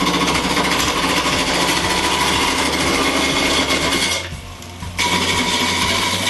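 A roughing gouge cutting into a spinning square-ish block of glued pine boards on a wood lathe: a loud, rapid, rough scraping as the gouge knocks down the corners toward a cylinder, with the lathe's motor humming underneath. The cut breaks off for under a second about four seconds in, then resumes.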